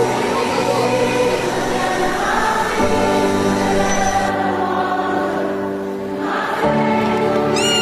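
Christian worship music: a choir holding long chords over a sustained accompaniment, with the chord changing twice. Near the end a short, high, falling cry cuts across the music.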